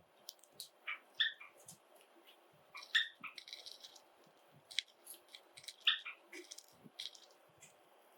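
Java sparrows giving short, sharp chirps every second or two, mixed with light clicks and taps.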